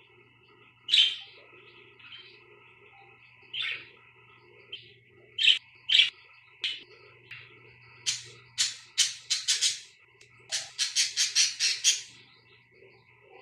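Budgerigars chirping: sharp single chirps at first, then two quick runs of rapid chirps in the second half.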